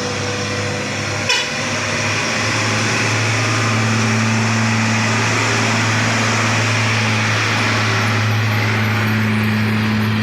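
Train running past close by: a steady low engine drone over broad rolling and rushing noise, with one sharp click about a second in.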